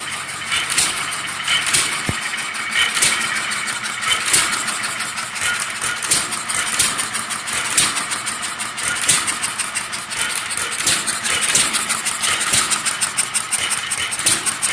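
Taylor vacuum (flame-licker) engine running, its valve and flywheel mechanism giving a string of sharp clicks over a steady hiss. The clicks come about once a second at first and quicken near the end as the engine picks up speed.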